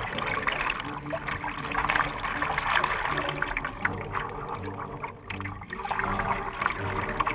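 Water splashing and lapping, with wind gusting on the microphone.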